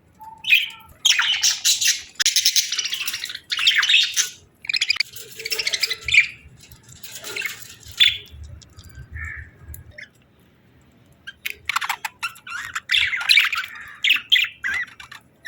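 Budgerigars chirping and chattering in quick, buzzy bursts, with a pause of about two seconds a little past the middle before the chatter resumes.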